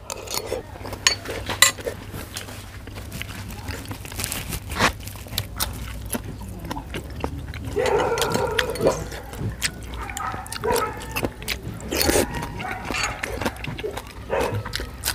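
A man chewing and eating close to the microphone, with wet mouth clicks and crunching as he bites fresh chillies and raw greens with a raw pork-blood salad. Short pitched cries come in about eight seconds in and again near eleven seconds.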